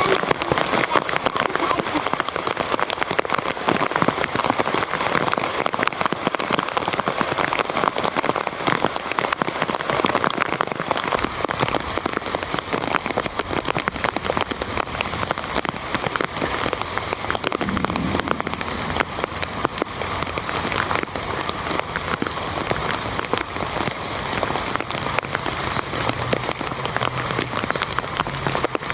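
Heavy rain falling steadily, with countless separate drop hits on surfaces.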